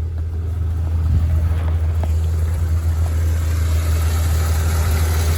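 1989 Dodge D150 pickup's engine idling steadily, with a hiss that grows about two seconds in.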